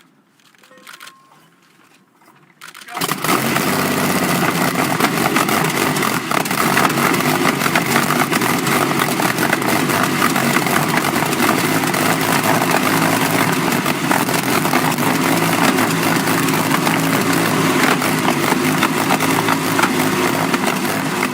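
Sunbeam 350 HP Bluebird's 18.3-litre Sunbeam Manitou V12 aero engine: after a few faint clicks, the engine comes in suddenly about three seconds in and runs loud and steady.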